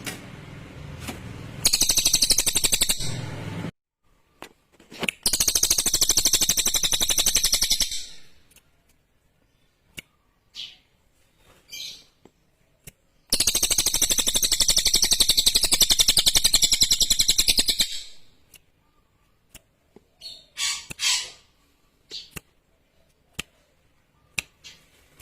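Cililin songbird singing: three loud bursts of a very rapid, high, chattering trill, each two to five seconds long, with short single chirps between and after them.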